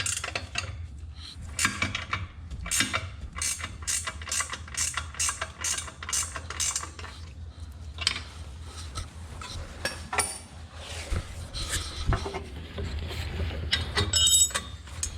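Ratchet wrench clicking in quick runs, about three clicks a second, as the exhaust bolts are worked loose, with a brief metallic ring near the end.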